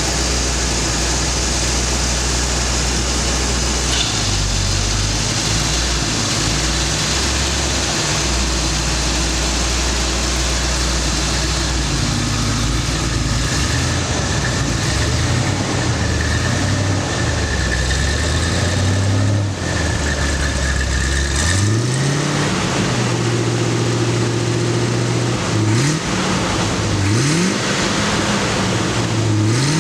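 1968 Corvette Stingray's V8 engine idling, its low note shifting in small steps, then revved in several short blips in the last third, each a quick rise in pitch.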